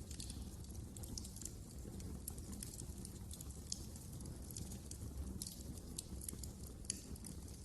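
Wood fire crackling: irregular sharp pops and snaps over a low steady rumble of the flames, with two louder pops, about midway and near the end.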